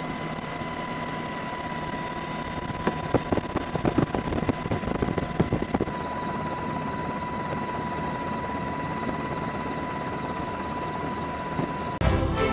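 Steady engine noise with a high, steady whine, and a run of sharp knocks and thumps a few seconds in. Music starts just before the end.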